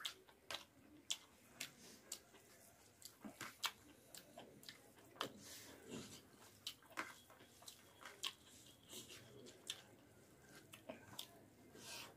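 A person chewing a mouthful of masaura curry and rice, close to the microphone: an irregular run of sharp mouth smacks and clicks, about one or two a second.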